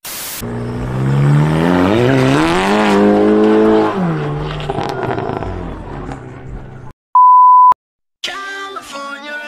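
A brief burst of static hiss, then a car engine revving up over a couple of seconds, holding, and dropping back, over road noise. About seven seconds in, a loud steady beep tone sounds for about half a second.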